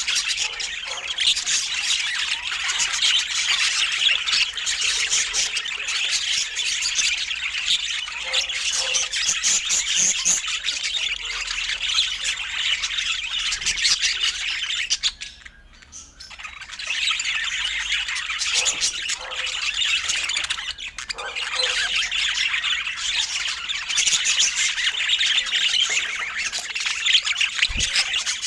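Budgerigars chattering, a dense stream of high calls that runs on with a brief pause a little past halfway.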